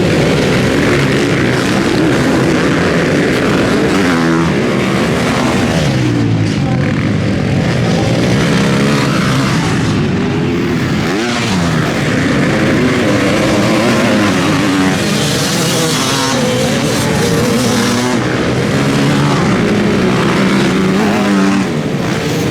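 Several motocross bikes running on the track, their engines revving up and falling back again and again, overlapping one another.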